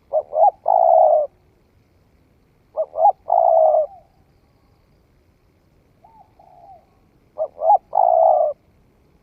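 Spotted dove cooing: three calls, each two short notes followed by a longer held coo, a few seconds apart, with a fainter short call between the second and third.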